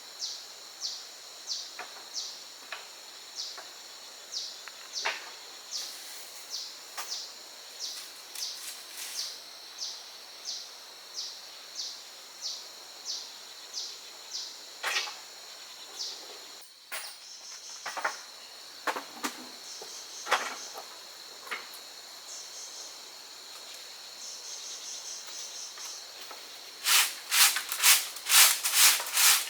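Insects calling in a steady rhythm, a high chirp about every three quarters of a second over a continuous high trill, with a few sharp clicks; near the end the pulses come faster and louder.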